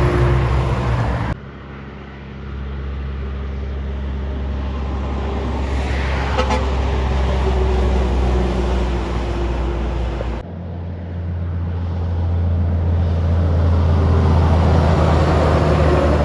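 Kenworth trucks' diesel engines running as the trucks drive past, with steady engine drone and tyre and road noise. The sound changes abruptly twice, about a second in and again near two-thirds through.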